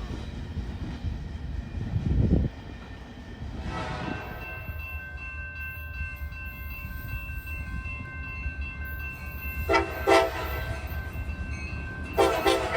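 Freight train running by with a steady low rumble and a loud low thump about two seconds in. A horn sounds as a steady chord in the middle, and louder clattering comes in near the end.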